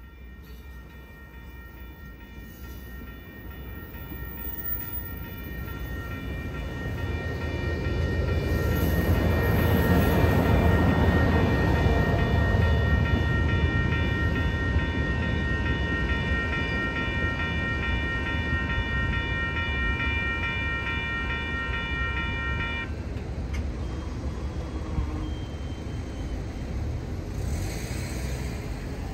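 Railroad crossing bell ringing steadily while an Amtrak California passenger train rumbles through the crossing; the train's rumble builds to its loudest about ten seconds in, then dies away. The bell stops abruptly about two-thirds of the way through.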